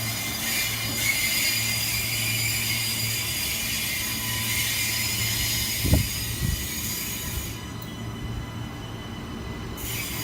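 Train running past on the rails: a steady low hum under a high hiss and squeal of wheels on rail, which drops away about seven and a half seconds in, with a single low thump about six seconds in.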